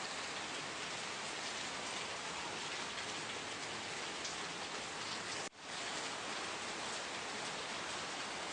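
Steady rain falling, a dense even hiss with scattered individual drop hits. The sound cuts out abruptly for an instant about five and a half seconds in, then comes straight back.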